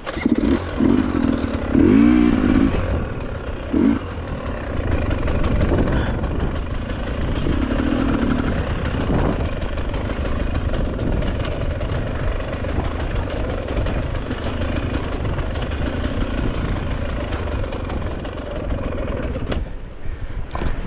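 Dirt bike engine blipped up in several short revs over the first few seconds, then running on steadily under load with a rapid, even firing beat.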